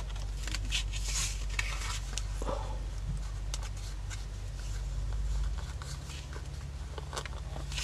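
A white Pilot pen scratching and lightly tapping as it outlines a design on a paper craft tag, in faint irregular strokes over a steady low hum.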